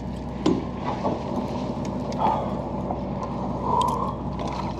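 A boat's engine running steadily at a low, even hum, with scattered knocks and clicks over it.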